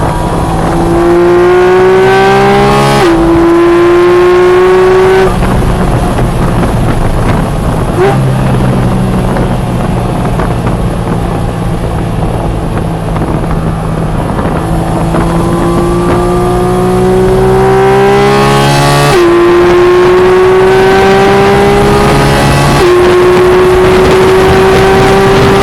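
Porsche 718 Cayman GT4 RS's naturally aspirated 4.0-litre flat-six accelerating hard at full throttle, pitch climbing with quick upshifts about 3 s in. Near 5 s it comes off the throttle for a slower stretch, then climbs again with two more quick upshifts near the end.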